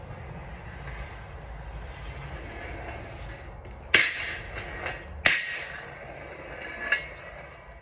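Metal clanks from tools and steel parts knocking together during engine work: two sharp, loud hits about a second apart, each ringing briefly, then a lighter clank near the end, over a low steady hum.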